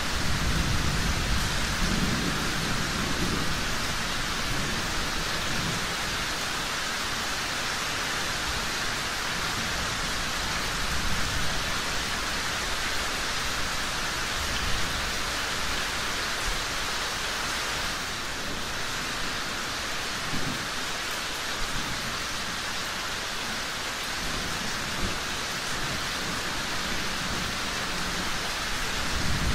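Steady rain falling, with low thunder rumbling near the start and again at the very end, and a few brief sharp pops.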